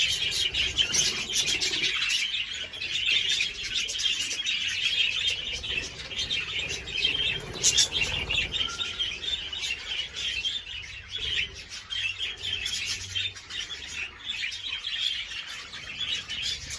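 A flock of budgerigars chattering and chirping continuously.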